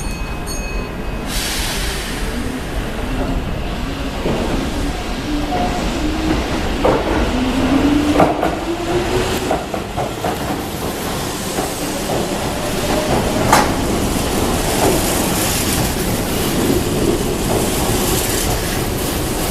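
Keihan 1000-series seven-car electric train pulling away: the traction motors give a rising whine as it picks up speed, with wheels clacking over rail joints.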